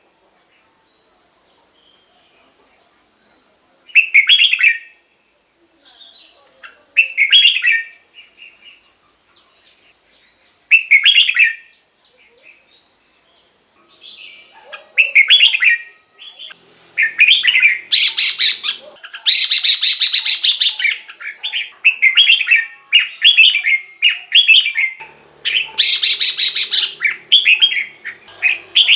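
Red-whiskered bulbul singing: short warbled phrases a few seconds apart, then from about halfway a quicker run of phrases mixed with harsh chattering bursts.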